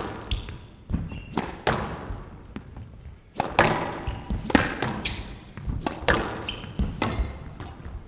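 Squash rally: the ball cracks off rackets and thuds against the court walls every second or so, each hit ringing briefly in the glass-walled court, with short high squeaks of shoes on the court floor between hits.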